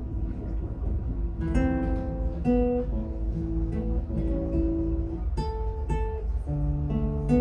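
Acoustic guitar playing the instrumental introduction to a Russian romance: plucked single notes and chords, each dying away, over a steady low hum.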